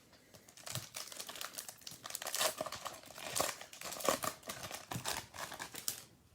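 Plastic trading-card pack wrapper being torn open and crinkled by hand, a dense run of crackling.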